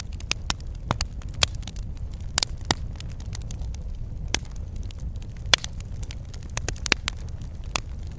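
Wood fire crackling in a fireplace: a steady low rumble of burning with irregular sharp pops and snaps, a few louder ones scattered through.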